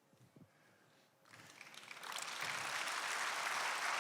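Audience applauding, starting about a second in and building up, then holding steady.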